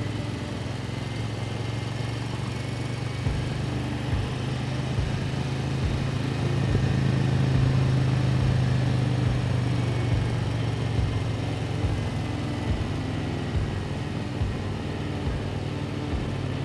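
Motorcycle engine running steadily at road speed under a rush of wind noise, swelling louder for a few seconds around the middle.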